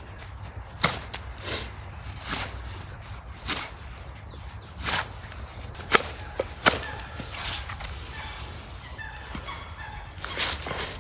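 A series of sharp knocks, about one a second and unevenly spaced, with three close together past the middle, from hands-on work setting up a candle at camp.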